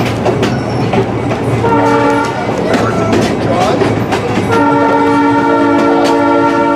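Narrow-gauge train running, its wheels clicking over the rail joints. The locomotive's horn gives one short blast about two seconds in and a long blast from about halfway on.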